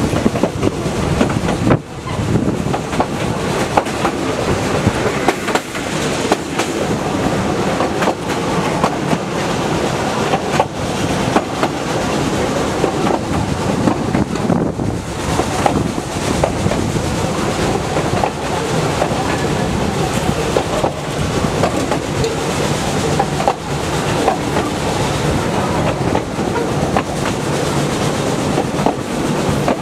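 Narrow-gauge railway carriage running along the line, heard from on board: a steady running noise of wheels on rail, with the clickety-clack and rattle of the wheels and coach.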